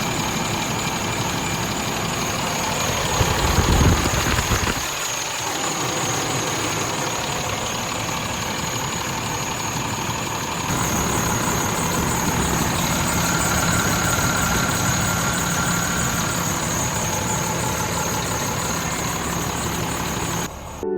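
Vac-Con vacuum jetter combo truck running its diesel machinery: a steady, loud, hissing mechanical noise with a high whine over it. A louder low rumble swells briefly around three to four seconds in.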